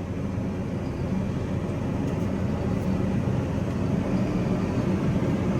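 Tractor engine running steadily with a low hum, slowly getting a little louder.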